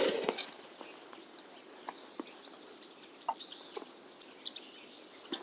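Quiet outdoor ambience with a few faint, short bird chirps and small ticks scattered through it.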